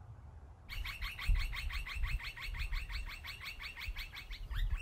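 A bird calling in a fast, even trill of repeated notes, about ten a second, starting about a second in and breaking briefly near the end before going on. A low rumble runs underneath.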